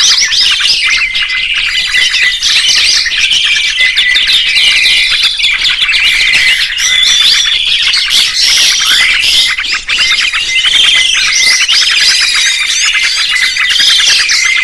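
Dense, continuous songbird chorus: many rapid chirps, trills and whistled glides overlapping, with several birds singing at once.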